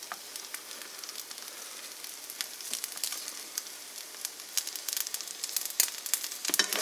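Buttered bread and eggs sizzling and frying in a pan, a steady hiss dotted with quick crackles and pops that grow busier near the end.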